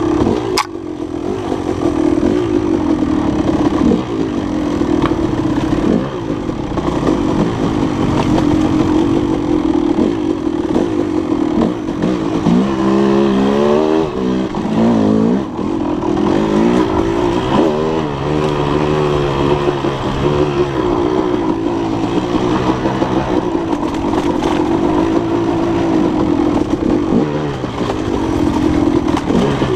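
Dirt bike engine running steadily while riding. Several times in the middle the revs rise and fall in quick swings.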